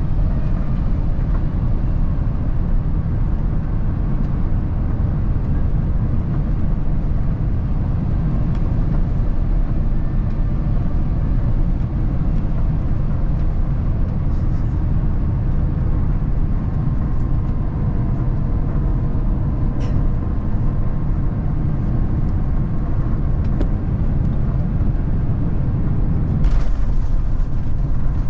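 Steady low rumble in the cabin of an Airbus A350-1000 taxiing after landing: its Rolls-Royce Trent XWB-97 engines at idle and the landing gear rolling, with a brief knock near the end.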